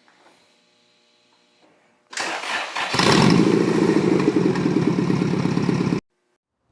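Honda Integra four-cylinder engine being started after a new timing belt, tensioner, water pump and spark plugs: the starter cranks for under a second, then the engine catches and runs loudly. The sound cuts off suddenly about six seconds in.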